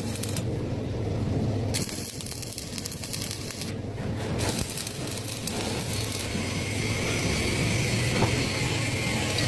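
Lathe running with a steady motor hum while the cutting tool works the turning stock, giving a hissing, crackling cutting noise. The cutting noise breaks off twice briefly, early on and about four seconds in, then runs on, with a steady high whine joining it about six seconds in.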